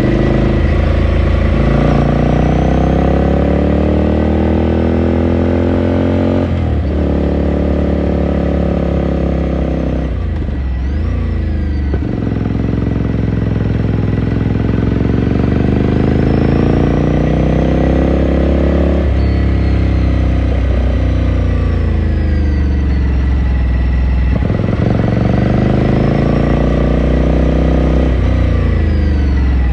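Ducati Scrambler Sixty2's air-cooled L-twin heard onboard, pulling up through the gears: the engine note rises steadily, then drops at each gear change, about five times, with one brief dip and pick-up near the middle.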